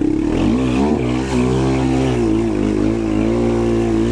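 Quad (ATV) engine running under throttle: its pitch dips briefly about half a second in, then climbs back and holds steady with small rises and falls as the throttle is worked.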